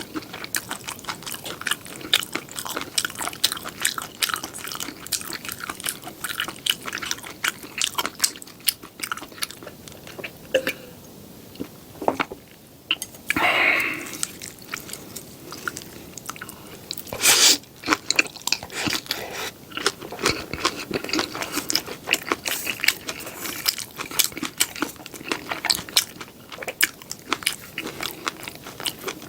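Close-miked eating sounds: biting and chewing seafood pajeon (Korean seafood and scallion pancake), with crisp crunches and wet mouth clicks in an irregular run. The chewing eases off briefly about halfway through, then picks up again.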